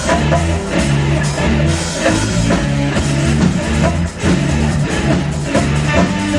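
Instrumental rock music with electric guitar, bass and drum kit playing a steady beat.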